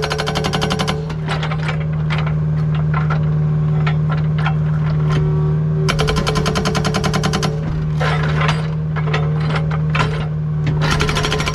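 Agrotk hydraulic hammer breaker pounding with rapid blows in bursts: one about a second long at the start, a longer one in the middle and another at the very end, with scattered single hits between. The mini excavator's diesel engine runs steadily underneath.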